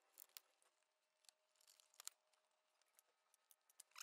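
Near silence, with a few faint clicks of the plastic push clips and the upper radiator cover being worked loose.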